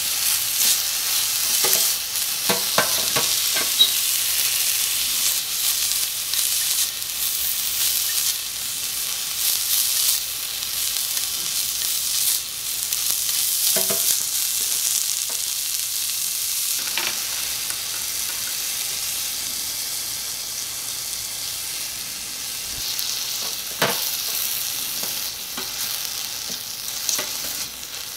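Beef, cabbage and carrot stir-fry sizzling steadily in a miniature copper wok, with a tiny metal spoon stirring it and clicking against the pan a few times, most often in the first few seconds.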